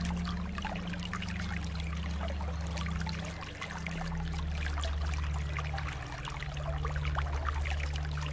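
Water flowing and trickling steadily, with a crackle of small splashes, over a steady low hum.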